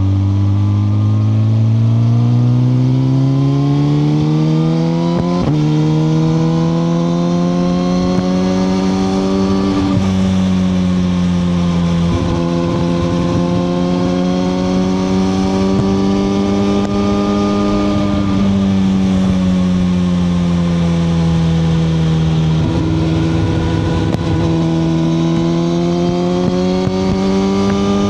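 Suzuki GSX-R1000R's inline-four engine under way, pulling up from low revs over the first few seconds. It then holds middling revs that rise and fall gently with the throttle, with a brief break about five seconds in.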